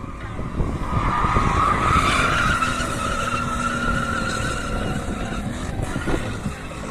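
BMW E34 M5 drifting: its tyres squeal in one long, steady screech from about a second in, easing off after about five seconds, over the low noise of the engine.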